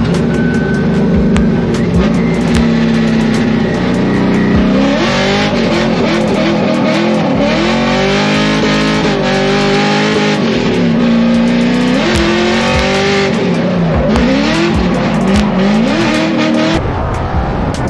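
Drift car engine being revved hard, its pitch climbing and dropping again and again, with tyre squeal from about four seconds in until about thirteen seconds in.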